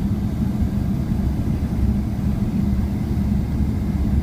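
Steady low rumble of a Boeing 777-300ER's GE90-115B engines and airflow, heard inside the passenger cabin, with an even hum running through it.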